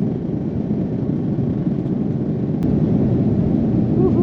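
Airliner cabin noise: the steady rumble of the jet engines and airflow heard from inside the plane, growing a little louder about three seconds in.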